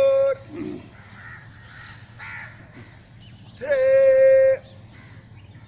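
A man's voice calling out counts in a yoga countdown, twice, each number drawn out as a long, flat, high-pitched call lasting nearly a second.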